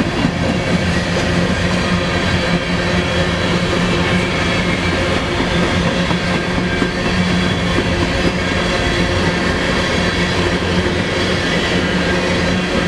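Freight train's coal cars rolling past at a steady speed: a continuous rumble of steel wheels on rail with a steady low hum.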